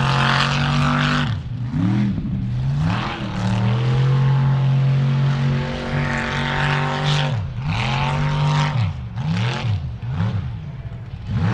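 Mud truck engine revving hard, its pitch dropping and climbing again and again, held steady at high revs for about two seconds in the middle, with bursts of hiss over it.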